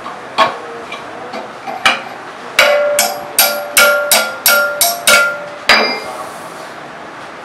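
Hammer blows on metal, each with a short metallic ring: two single strikes, then a run of about seven at roughly two a second, ending a little before the end.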